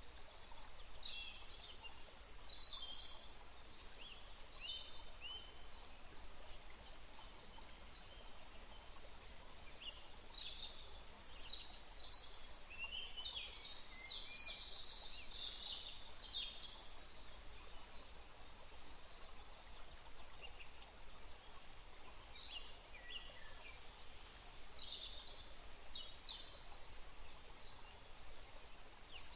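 Wild birds chirping and calling in short, high bursts of quick notes, busiest in the middle, over a steady low background rumble.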